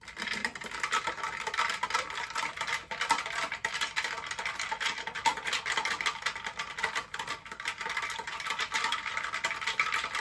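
A spoon stirring briskly in a glass of greens powder drink: a fast, continuous run of clinks and scrapes against the glass.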